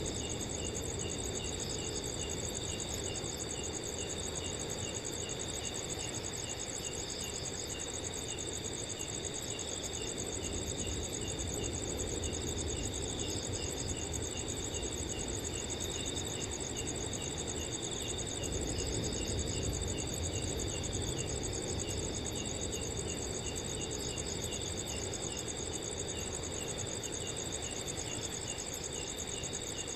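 Several crickets calling at once: one continuous high trill, with other crickets adding regular short chirps about twice a second, over a low, even rush of wind.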